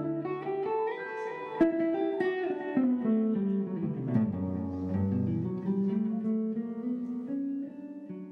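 A band playing music led by plucked guitar, with long held notes changing every second or so and one sharp accent about a second and a half in.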